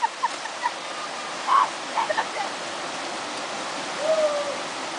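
Waterfall rushing steadily, with a few faint voices and a short hoot-like call about four seconds in.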